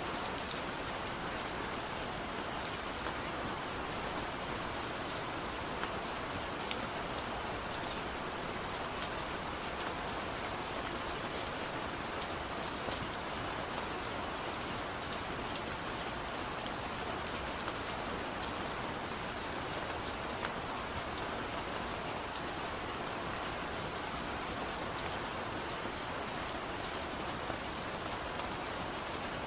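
Steady rain falling, an even hiss with many small drop strikes pattering throughout.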